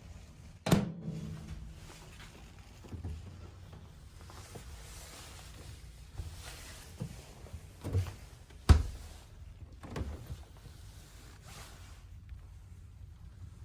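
Doors, cupboards or drawers in a small hotel room being opened and shut: a series of clunks and knocks, the loudest about a second in with a brief ringing after it and another sharp one near the ninth second.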